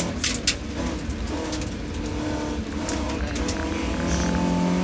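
BMW E30 318is rally car's four-cylinder engine heard from inside the cockpit, running hard on a stage. A few sharp knocks come in the first half second, and about four seconds in the engine note gets louder and climbs in pitch as the car accelerates.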